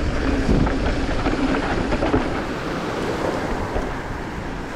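Wind rushing over the camera microphone and the steady low rumble of a mountain bike's tyres rolling over a rough dirt trail on a fast descent.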